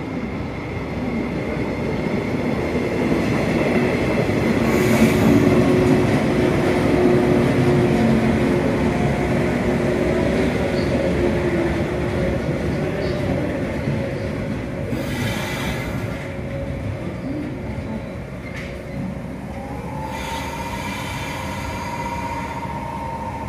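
Train running through the station: a steady rumble of wheels on rail that swells to its loudest about five seconds in and then slowly eases, with thin steady whining tones over it. Near the end a higher whine rises and then holds.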